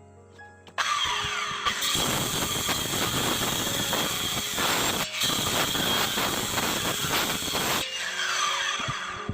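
A handheld power tool working wood runs for about seven seconds, starting about a second in and cutting out briefly past the middle, over background music.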